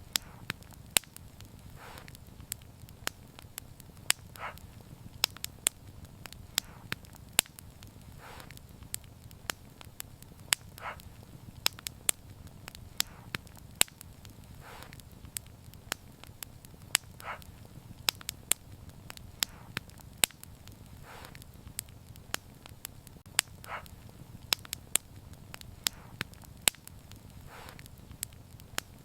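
Wood fire crackling: many sharp irregular snaps and pops over a steady low rumble of burning, with softer pops every few seconds.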